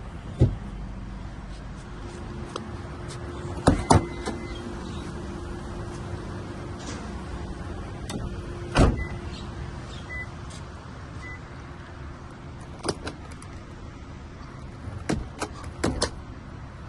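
Toyota Vellfire's doors and latches clunking shut several times, with a steady electric motor hum between the clunks, like a power door or window running, and a few faint short beeps in the middle.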